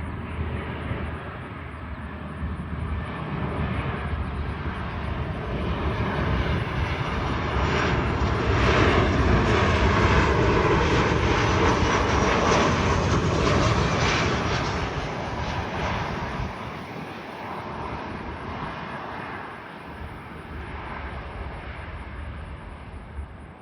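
Boeing 737 jet airliner flying past as it comes in to land, its engine noise swelling to a peak about ten seconds in and then fading away.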